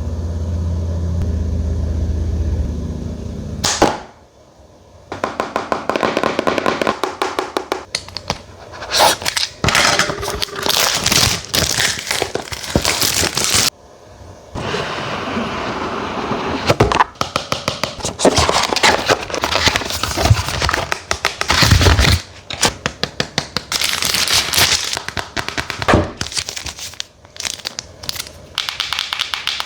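Smartphone packaging being handled and opened: rapid crackling and clicking of plastic wrap and cardboard, with scraping and rustling, in spurts. A steady low hum comes first, stopping about four seconds in.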